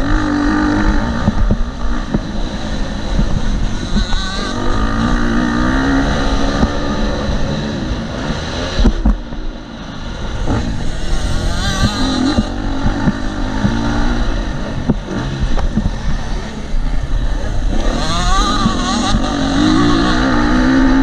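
KTM SX-F 250 four-stroke single-cylinder dirt bike engine revving hard around a motocross track, its pitch rising and falling repeatedly as the throttle opens and closes, with wind rushing over the helmet-camera microphone. There is a sharp knock near the middle, followed by a brief easing of the engine.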